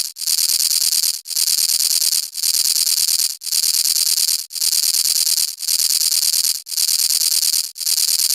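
High-pitched hiss like static, repeating in bursts of about a second each, every burst cut off by a brief dropout before the next starts.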